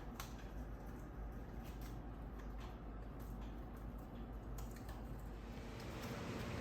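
African grey parrots picking at and chewing vegetables: faint, irregular small clicks and crunches over a low steady hum.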